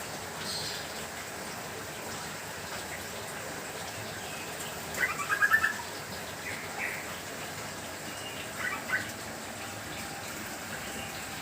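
Small aviary birds chirping in short scattered calls over a steady hiss of rain. The loudest call comes about five seconds in, a quick run of repeated notes.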